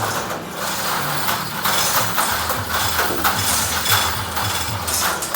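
A steady low machine hum with scattered metal clinks and knocks from work on the tank and its rigging.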